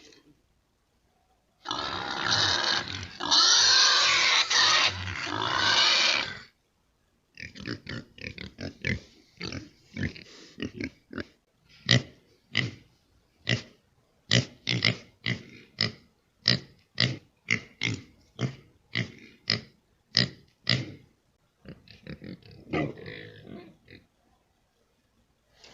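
Pig calls: a few seconds of loud squealing, then a long run of short grunts, about two a second, fading near the end.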